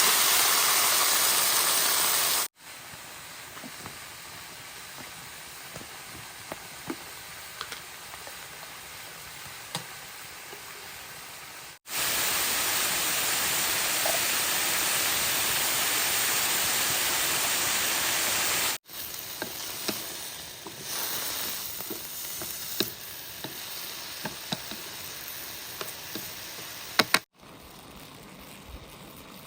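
A loud, steady hiss broken by abrupt cuts into quieter stretches with scattered small clicks and knocks.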